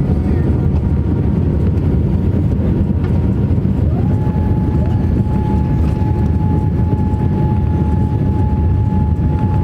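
Boeing 787-8 cabin noise: a steady low rumble of the jet engines and airflow, with a whine that rises about four seconds in and then holds at one pitch.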